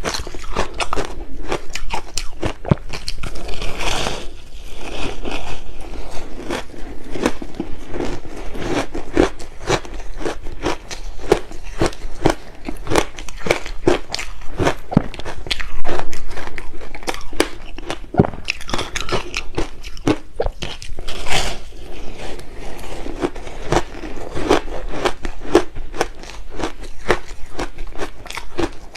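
Shaved ice being crunched and chewed close to the microphone, a dense run of crackling bites and crunches with a few louder bites along the way.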